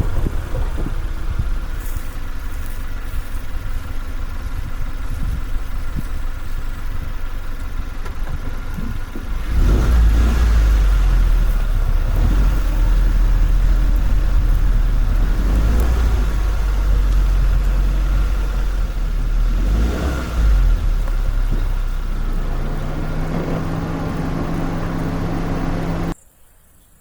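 An engine running, much louder about ten seconds in, with a rising tone shortly before it stops suddenly near the end.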